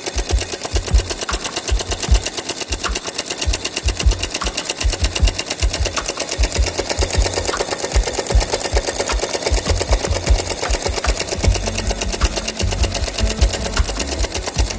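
Homemade solenoid engine running: the coil pulls its rod in on each stroke as the cam-timed contact makes and breaks, turning the flywheel with a fast, even clatter.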